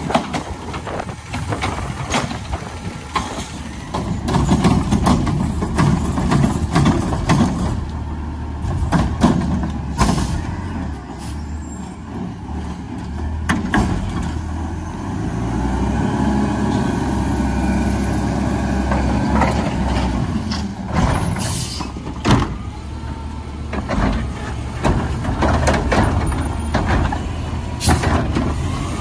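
Garbage truck at work: its diesel engine runs and rises in level several times. A whine bends in pitch around the middle. Many sharp knocks and bangs are scattered through, with short hisses of air.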